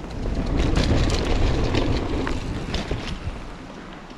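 Mountain bike riding a dirt trail: wind buffeting the camera microphone over a low rumble of tyres on the ground, with frequent sharp rattles and clicks from the bike over bumps. It quietens a little near the end.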